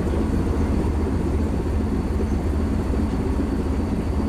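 Cargo ship's main diesel engine running steadily, a low, even rumble with a fast pulsing beat.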